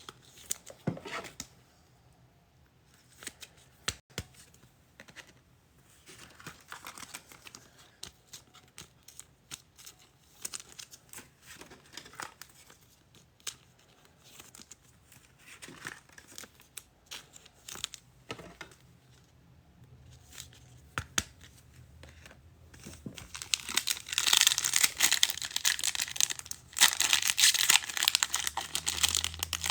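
Light clicks and rustles of trading cards being handled, then, about three-quarters of the way through, a louder run of crinkling and tearing as a football trading-card pack wrapper is ripped open.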